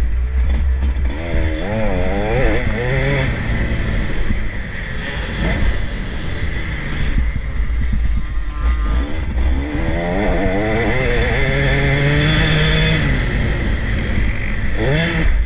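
Off-road motocross bikes racing past, engines revving up and down as the riders work the throttle, with two louder passes: one about two seconds in and a longer one from about nine to thirteen seconds in.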